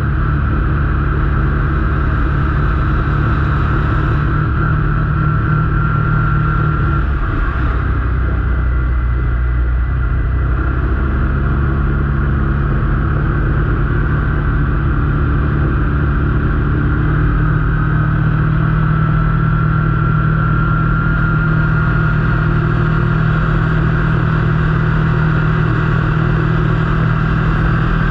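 A motor vehicle's engine running steadily while under way, with a change in engine pitch about seven seconds in and another around eleven seconds.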